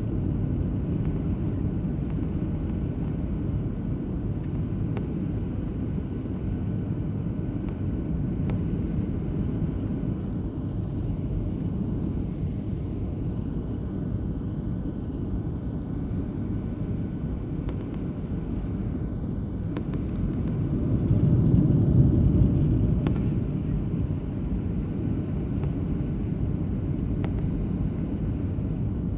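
Steady low rumble of engine and airflow noise inside an airliner's cabin on final approach. It swells louder for a few seconds about two-thirds of the way through.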